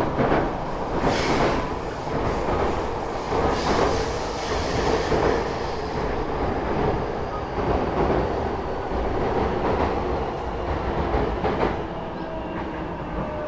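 Electric commuter train heard from inside the car as it runs into a station platform: steady wheel-on-rail rumble with a few knocks over the rails. A high wheel squeal runs through the first half, and a couple of steady tones come in near the end as it slows.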